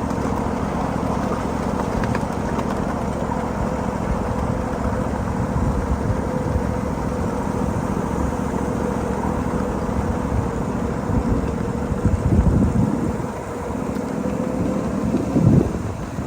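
7.5-inch gauge miniature freight train running along the track: a steady rumble of wheels on rail with a constant steady tone over it. A short louder falling sound comes near the end.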